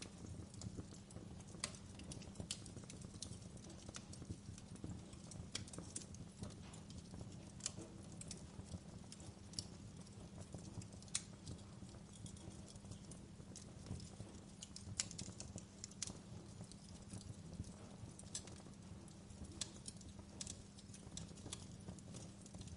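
Wood fire crackling in a fireplace: irregular sharp snaps and pops scattered over a low, steady rumble.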